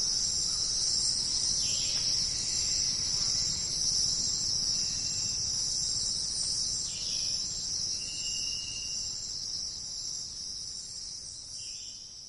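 Dense, steady chorus of rainforest insects, a shrill high-pitched band, with a few brief calls over it. It gradually fades near the end.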